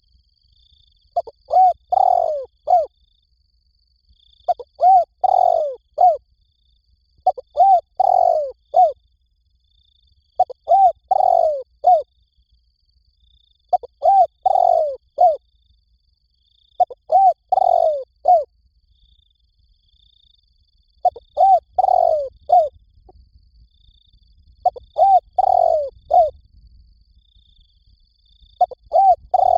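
Spotted dove cooing: a phrase of a few short, arched coo notes, repeated about every three seconds, nine times in all.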